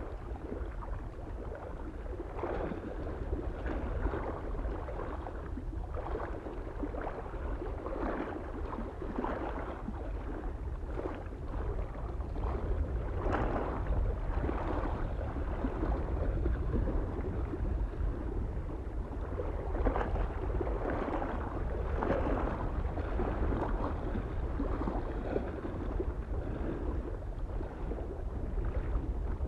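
Small waves lapping and splashing irregularly against a lake shore, with a steady low rumble of wind on the microphone.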